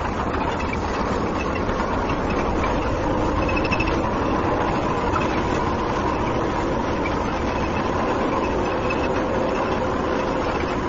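A tractor pulling a trolley on the move, its engine running steadily under a constant mechanical din.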